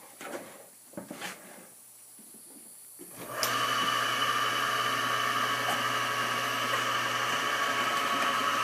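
Electric motor of a homemade drum sander switched on about three seconds in, then running steadily, turning the sanding drum and, through belts and pulleys, the slow conveyor belt. A few light clicks and knocks come before it starts.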